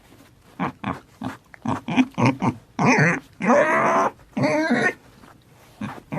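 Domestic pig vocalizing: a quick run of short pitched calls and several longer ones, the longest near the middle.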